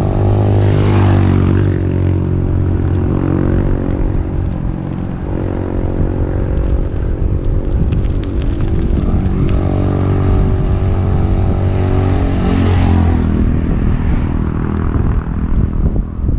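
A motor vehicle's engine running close by for the whole stretch, its pitch shifting a little. Wind rushes over the microphone near the start and again near the end.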